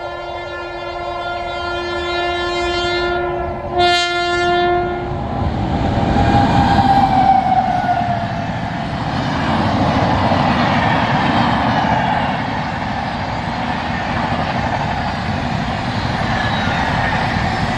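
Indian Railways passenger train sounding its horn in a long chord-like blast, broken briefly about four seconds in, then a short second blast. The train then passes at speed with a loud, steady rush of wheel and rail noise.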